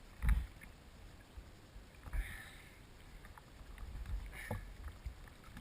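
A Supra boat moving over the water: rushing water and wind noise, broken by a few low thumps and splashes. The loudest thump comes about a quarter second in, with weaker ones around two seconds and four and a half seconds in.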